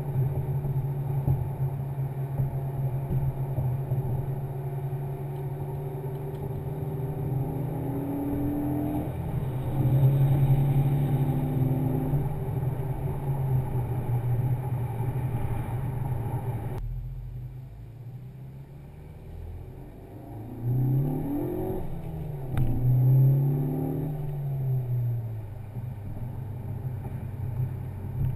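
A 2013 Ford Focus ST's turbocharged 2.0 EcoBoost four-cylinder, breathing through an MRT Eco-Flow axle-back exhaust, heard from inside the cabin with the Sound Symposer off. It drones steadily at highway cruise, swelling briefly about ten seconds in. Partway through it cuts suddenly to a quieter stretch, then the engine note rises and falls twice as the car accelerates and eases off.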